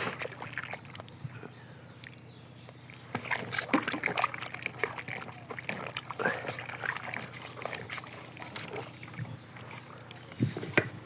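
A cow eating a wet mash of boiled potatoes and broken rice: irregular slurping, splashing and chewing in the feed, with a louder knock near the end.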